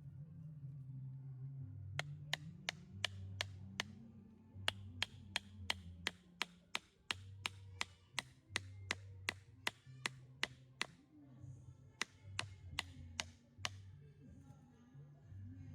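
A knife chopping on a cutting board at an even pace, about three strokes a second, pausing briefly twice and stopping near the end, over soft background music.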